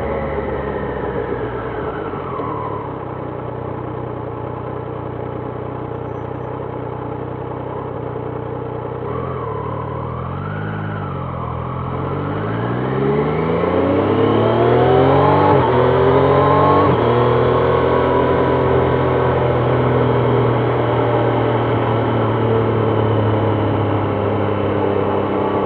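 Triumph Trident 660's inline three-cylinder engine from the rider's seat: it winds down and runs low and steady. About halfway through it accelerates hard, rising in pitch through a few quick upshifts, then settles to a steady cruise.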